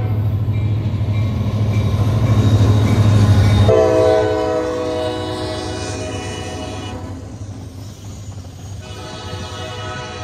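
Train horn sounding in long blasts over the low rumble of a passing train. One blast ends right at the start, another comes in near four seconds and lasts about three seconds, and a third starts near the end. The rumble is loudest at about three and a half seconds, then the sound fades as the train moves away.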